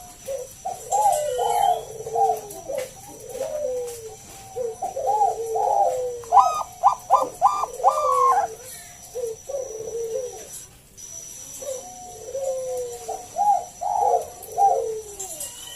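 Zebra dove (Bangkok-strain perkutut) cooing in repeated rolling phrases. Around the middle comes a quick run of higher, clipped notes, then a short lull before the cooing resumes.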